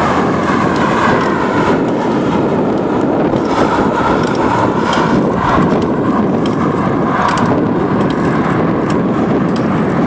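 Steady rushing noise of wind and road while riding a bicycle along a road, with motor traffic going by.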